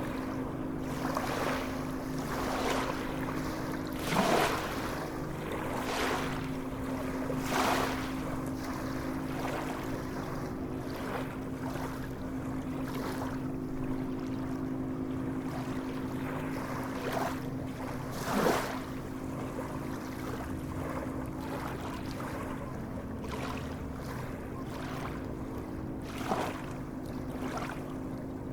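Sea waves lapping and splashing in short irregular surges over a constant wash of water, with a steady low hum underneath.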